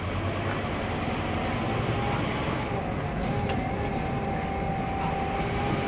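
Scania K230UB bus's nine-litre five-cylinder diesel engine running under load, with a continuous low rumble. A whine rises slightly over the first few seconds and then holds steady.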